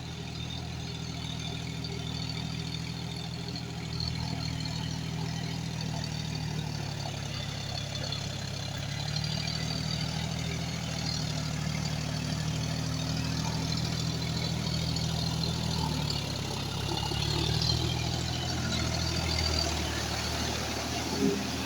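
John Deere 5105 tractor's three-cylinder diesel engine running steadily, its pitch dipping and rising slightly a few times. A short knock comes near the end.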